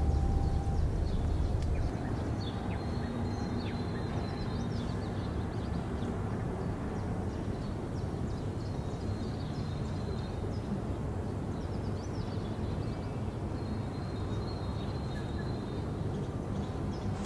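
Steady outdoor ambience with scattered short, high bird chirps; a low rumble fades out about two seconds in.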